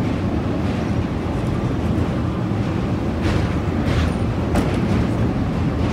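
Train crossing a steel truss railway bridge: a steady low rumble of the wheels on the rails, with wind on the microphone. A few sharp clicks come between about three and four and a half seconds in.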